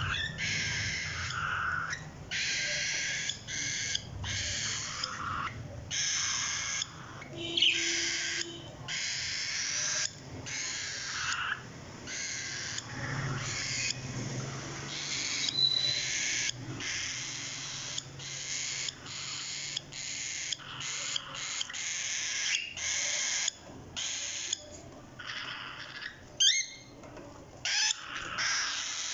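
Parrot chicks giving raspy, hissing calls in repeated bursts of about half a second to a second with short gaps, and a couple of brief rising whistled notes.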